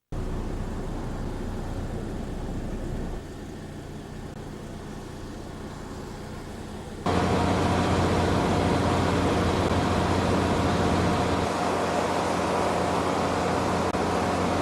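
Steady hum of an idling engine, with a constant low drone and a few fixed tones above it. It drops in level about three seconds in and comes back louder about seven seconds in.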